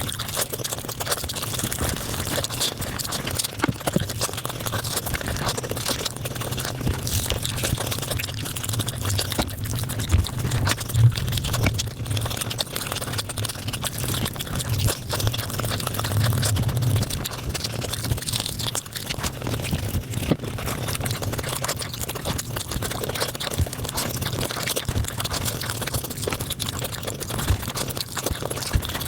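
Mukbang eating sounds played at five times speed: a dense, rapid crackle of chewing and mouth noises over a low steady hum.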